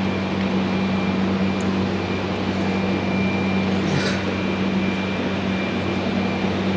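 Shop heater blowing steadily: a constant fan noise with a low, even hum. A light click comes about four seconds in.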